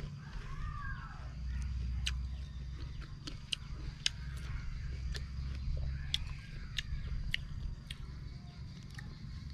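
Chewing crisp green ambarella fruit: scattered sharp crunches and wet mouth clicks, a few seconds apart.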